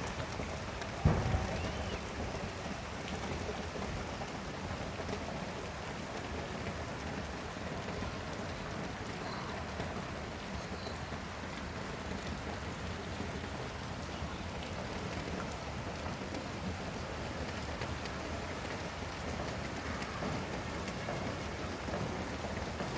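Steady rain falling and pattering on surfaces. About a second in there is one sudden loud thump.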